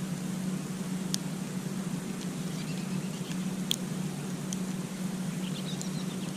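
Campfire burning with a steady low rumble and a few sharp crackling pops, the loudest a little after midway. Near the end comes a brief run of high chirping.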